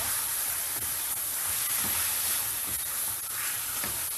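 Raw chicken breast strips sizzling steadily in hot oil in a stainless steel frying pan while being stirred with a spatula, which scrapes the pan a few times.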